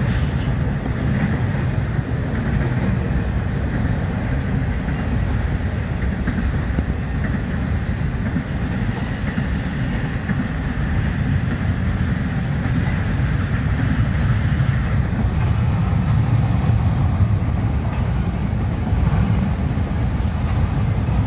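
Double-stack intermodal freight train rolling past: a steady, heavy rumble of well-car wheels on the rails. A faint high wheel squeal comes in twice, about five and about nine seconds in.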